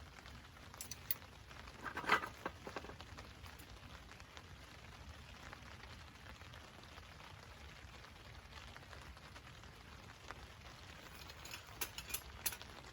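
Steady light rain pattering on a camp tarp, with scattered sharp ticks and a louder knock about two seconds in, and a small cluster of ticks near the end.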